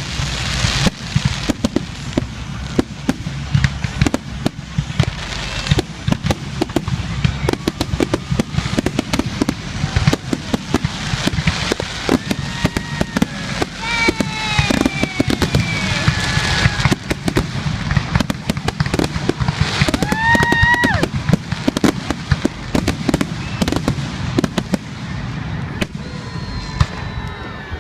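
Aerial fireworks display: a dense, continuous run of bangs and crackles, with a few whistling tones that rise and fall about halfway through and again about two-thirds of the way in.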